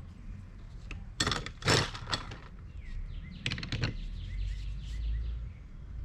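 Metal hand tools clinking and clattering, in two short clusters of sharp clicks, as sockets or wrenches are picked through. Faint bird chirps in the background.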